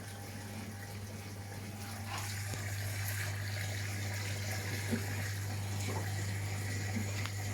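Washing machine taking in water: a steady rush of water filling the drum, growing louder about two seconds in, over a steady low hum.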